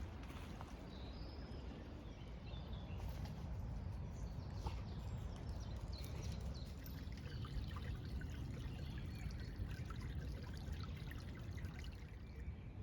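A small brook trickling steadily, with faint short bird chirps over it.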